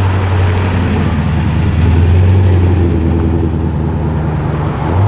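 Holden Commodore's engine running at low revs as the car rolls in, a steady low note. Just before the end the revs step up.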